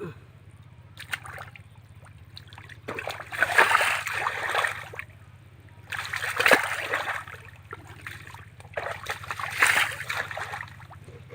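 Water splashing and sloshing in three bursts, each a second or two long, about a second and a half apart, as in shallow water being worked through, with a steady low hum underneath.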